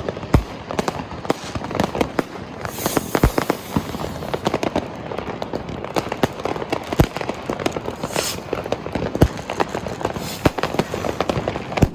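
Many fireworks and firecrackers going off in irregular, overlapping succession: sharp bangs and pops throughout, with two longer hissing bursts about three and eight seconds in.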